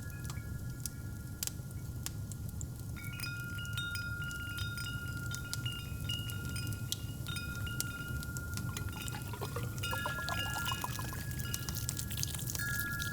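Wind chimes ringing with long, overlapping tones over a steady low fireplace rumble with scattered crackles and pops. About nine seconds in, a short rising-pitched pour, like liquid filling a cup.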